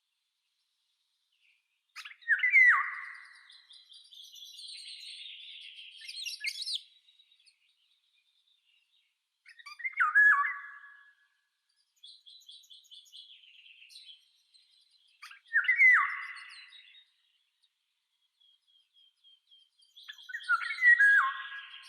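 Birds calling outdoors: a louder, falling call comes four times, about six seconds apart, with softer, higher twittering from other birds in between.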